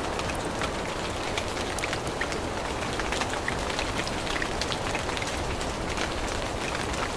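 Steady rain falling in a forest, with many single drops heard as short ticks over an even hiss.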